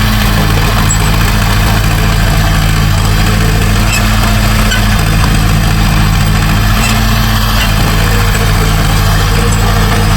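Diesel engine of heavy earthmoving equipment running steadily: a low, even drone that neither revs up nor down.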